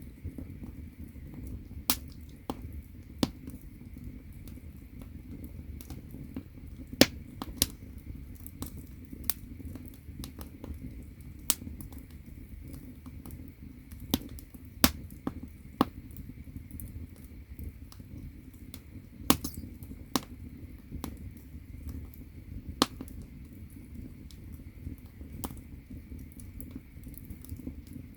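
Firewood burning in an agungi, a traditional Korean firebox: irregular sharp crackles and pops over a low steady rumble of the fire.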